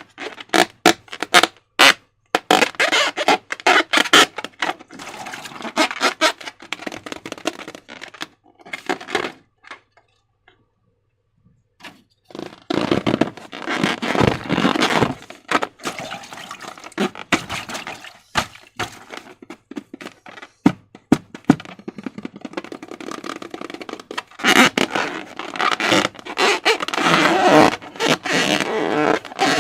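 Slime being squeezed and worked by hand: runs of sticky clicks and crackles, then denser wet squelching after a pause of about two seconds.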